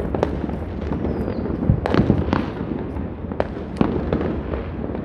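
Many fireworks going off at once across a city: a continuous low rumble of distant bangs, with sharp cracks and pops standing out several times a second, loudest about two seconds in.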